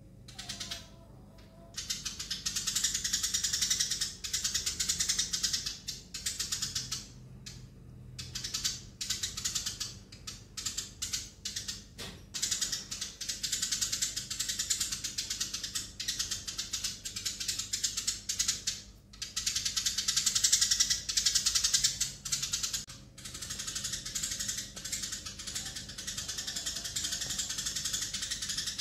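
Eurasian tree sparrows chirping in a fast, continuous chatter of high chirps, in long runs broken by short pauses.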